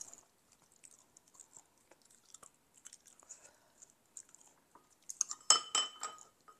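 Quiet chewing and small wet mouth clicks of a person eating boiled chicken, then about five seconds in a short cluster of ringing clinks as metal chopsticks knock against a ceramic bowl and an earthenware pot.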